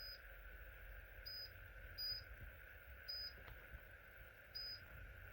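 Cool-mist humidifier running quietly: a faint steady hum with short, high-pitched plinks every half second to a second and a half.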